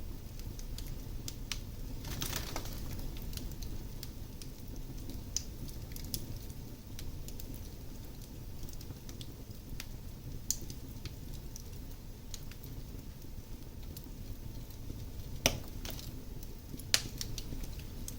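Wood fire crackling in a fireplace: scattered snaps over a low steady rumble, a short hiss a couple of seconds in, and two sharp pops near the end.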